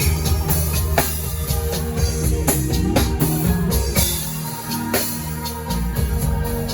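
Live worship band playing an instrumental passage: drum kit hitting about once a second over steady bass and sustained chords, with no singing.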